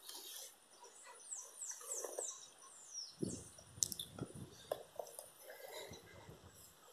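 A bird's quick run of about five high, falling whistles about a second in. From about three seconds in there is low rumbling with scattered knocks and clicks, as from a hand-held phone being moved and gripped.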